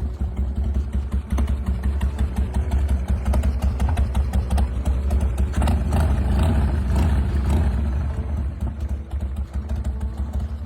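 Air-cooled V-twin engine of a Harley-Davidson Sportster 1200 hardtail chopper running with a steady pulsing exhaust beat, growing stronger for a couple of seconds midway.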